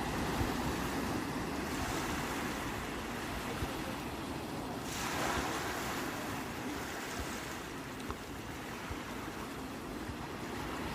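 Sea waves washing on the shore in a steady rush of surf, with one wave breaking louder about halfway through. A low, uneven rumble of wind buffets the microphone underneath.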